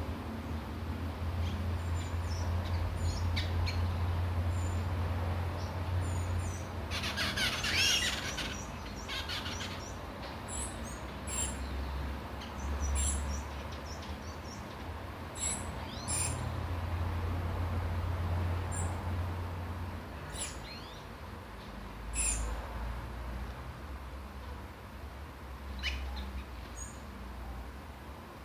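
Small birds chirping with short, high calls scattered throughout, and a dense flurry of calls about seven seconds in, over a steady low rumble.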